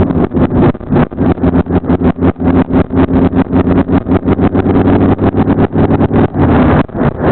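Kawasaki Vulcan chopper's engine running while riding, heavily buffeted by wind on the microphone, which chops the sound into rapid gusts. The engine note is steadiest in the middle of the stretch.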